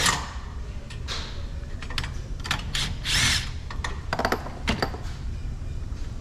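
Hand ratchet with a 10 mm socket on a long extension clicking in short, irregular runs, loosening the battery hold-down bolt.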